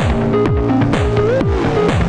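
Electronic music from a modular synthesizer. A deep kick whose pitch drops fast hits about twice a second under short gliding melodic bleeps and a low steady drone. Bursts of sidechained noise hiss in time with the beat.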